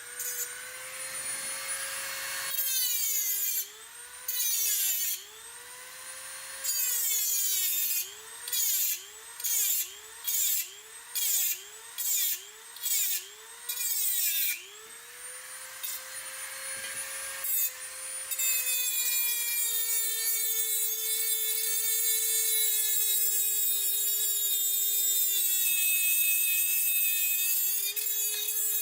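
Angle grinder grinding on the steel frame of a weight bench to clear off bad welds. The motor whine drops in pitch each time the disc bites the metal. In the middle it comes as a run of short passes, about one and a half a second, and near the end it settles into a long steady grind.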